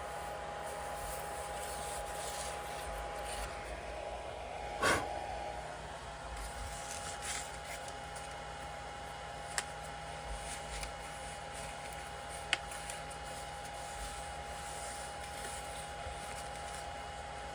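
A steady hum with a constant high tone, over which small parts are handled: a soft knock about five seconds in and two sharp clicks later.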